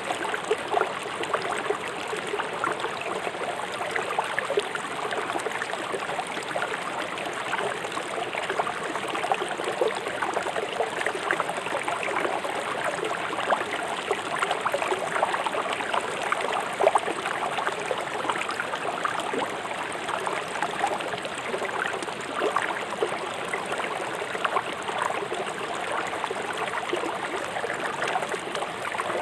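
A fast-flowing river rushing and splashing over river stones: a steady, dense water sound full of small splashes and gurgles.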